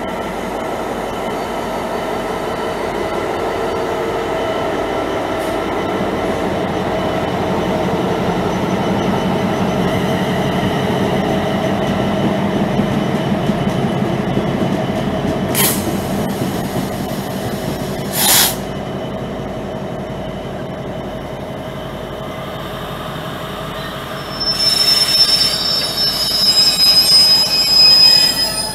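Freightliner Class 66 diesel-electric locomotive passing at speed, its two-stroke diesel running under power, then container wagons rolling by with a steady rumble. Two brief sharp noises come about two-thirds through, and near the end the wagon wheels squeal loudly and high-pitched.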